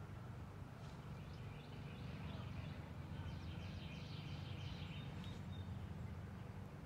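Faint outdoor ambience: small birds chirping and twittering from about a second in until about five seconds, over a steady low rumble.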